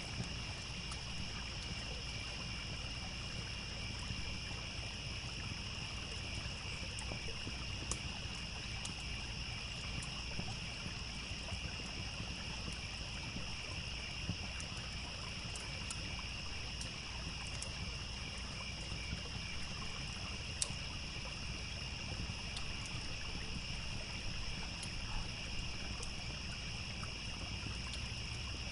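A steady chorus of crickets chirping over the low, even rush of a trickling stream, with a few sharp pops from a crackling campfire.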